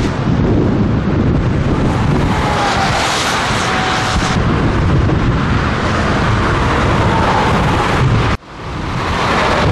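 Scania truck on the move: steady engine and road noise under heavy wind buffeting the microphone. The sound cuts out abruptly about eight seconds in, then fades back up.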